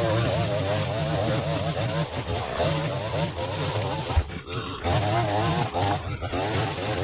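Chainsaw running and cutting, its engine note wavering rapidly up and down, with two short drops about four and six seconds in.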